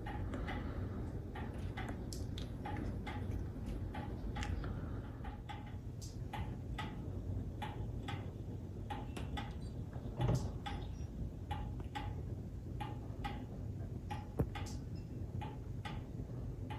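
1960s pendulum clock ticking steadily back and forth, with one louder knock about ten seconds in.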